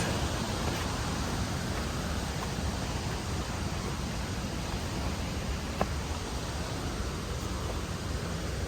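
A steady, even rushing noise with no pitch to it, with one faint tick about six seconds in.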